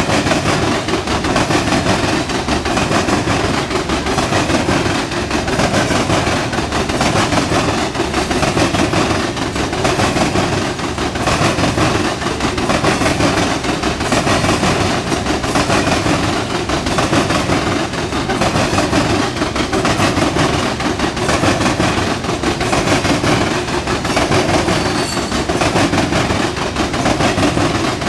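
Loaded coal hopper cars of a freight train rolling past on the rails: a steady rumble and clatter of steel wheels on track, swelling in a regular beat as each car's wheel sets go by.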